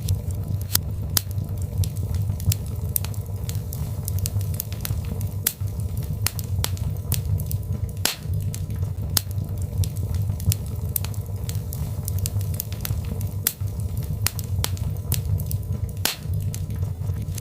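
Birch logs burning in a fireplace: the wood crackles with frequent, irregular sharp pops over a steady low rumble of the fire.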